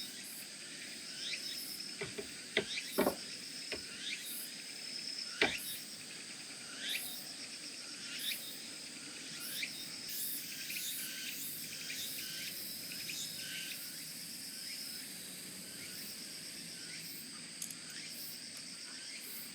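Crickets and other insects chirping: a steady high whine under an on-and-off trill and many short falling chirps. A few sharp knocks stand out about two to three seconds in and again at about five and a half seconds.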